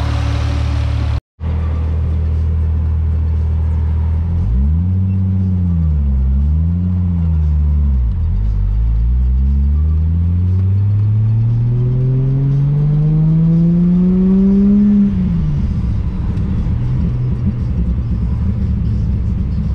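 Turbocharged Ford Barra 4.0-litre inline-six in an FPV F6 Typhoon, heard from inside the cabin while driving. The engine note rises and falls twice quickly about five seconds in, then climbs steadily for about seven seconds under acceleration before dropping sharply as the throttle closes, and settles back to a steady cruise.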